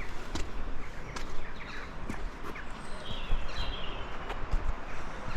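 Footsteps walking on a path, an even tread of sharp steps, with small birds chirping in short bursts a few seconds in.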